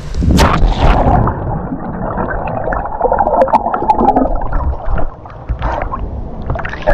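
A sudden splash into water, then muffled gurgling and sloshing of water for the rest of the time, with another splash near the end.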